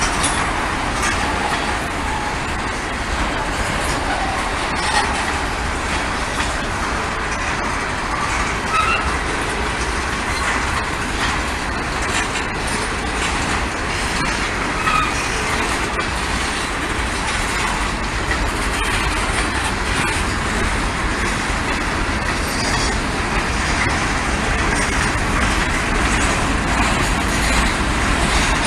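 Norfolk Southern freight train rolling past, its cars running steadily along the rails with a continuous loud noise and a few short, faint high-pitched tones.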